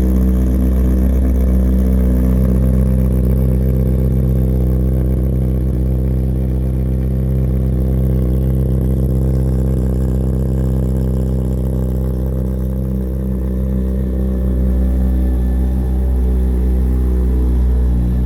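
Yamaha FZ-1's 1000cc inline-four engine, breathing through a short titanium sport silencer, idling at a steady, even speed.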